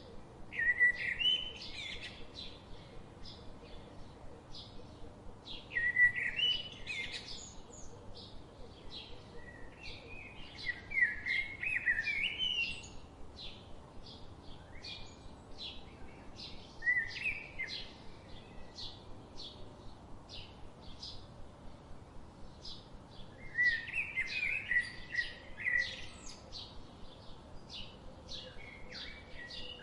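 Birds singing: a steady run of short high chirps, about two a second, with louder warbling song phrases breaking in every few seconds.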